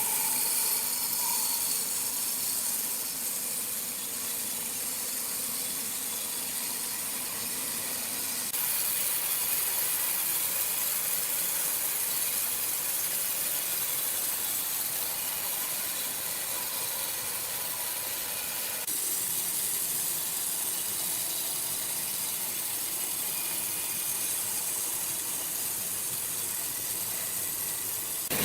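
Steady hissing machine noise of sawmill machinery running, changing abruptly in level twice.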